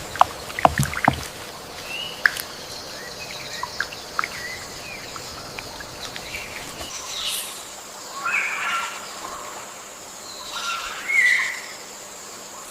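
Rainforest ambience of birds: scattered short chirps, then a few louder calls in the second half. A steady high-pitched tone sits underneath, and there are a few sharp clicks in the first second.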